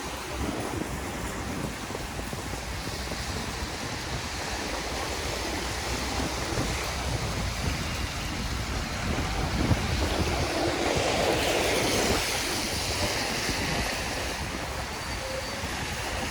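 Steady rushing wind on the microphone mixed with tyre hiss on a wet road while riding a KingSong 16S electric unicycle in the rain, growing louder for a few seconds past the middle.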